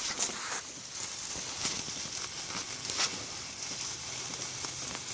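Two handheld sparklers burning with a steady fizzing hiss and faint scattered crackles.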